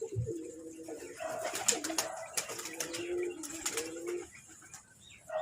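Domestic pigeons cooing in a loft, several birds overlapping, with scattered light clicks and scuffs.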